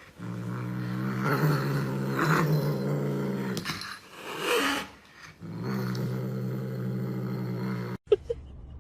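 Cat growling low and steady in two long stretches, with a short rising and falling yowl between them. The sound cuts off suddenly near the end.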